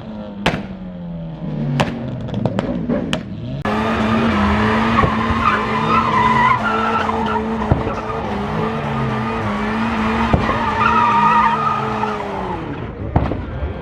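A car engine revving, with several sharp bangs in the first few seconds. About four seconds in it jumps to a steady high rev, and the tyres spin and squeal loudly.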